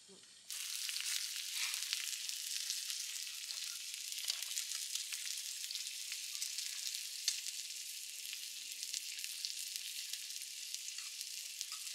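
Food frying: a steady sizzle with fine crackles, starting abruptly about half a second in.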